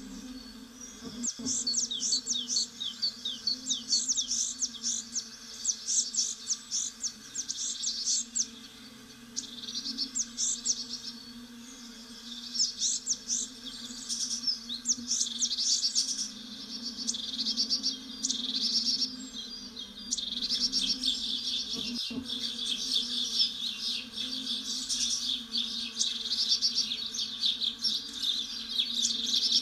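Small songbirds chirping in quick, repeated trills, over a steady low hum.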